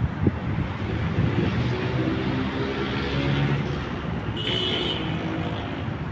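City traffic ambience: a steady wash of street noise with a motor vehicle's engine hum passing through the middle, and a brief high hiss about four and a half seconds in.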